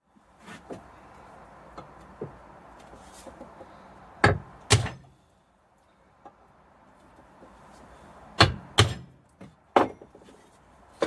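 Hard objects knocking and clunking on a workbench: a few light taps, then two sharp knocks close together about four seconds in and three more between about eight and ten seconds in.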